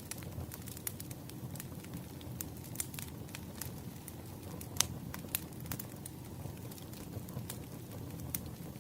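Burning firewood crackling and popping over a low steady rumble, with one sharper pop about five seconds in.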